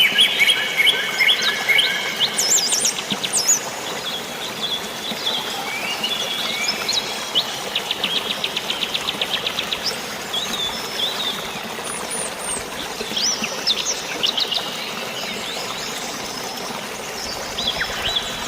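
Several birds chirping and calling in quick, overlapping phrases, with a fast trill of about eight notes a second around eight seconds in. Under them runs a steady hiss of rain and flowing water.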